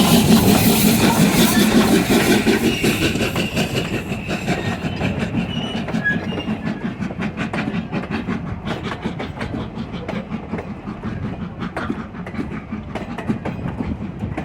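Train passing and moving away, its running sound fading steadily, with wheels clicking over the rail joints as it goes.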